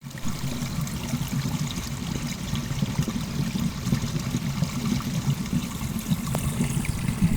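Water running steadily with a continuous trickling, splashing noise.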